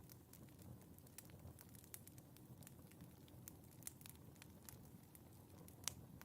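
Wood fire in a fireplace crackling faintly, with a low rumble of flames under frequent small, irregular pops and one sharper pop near the end.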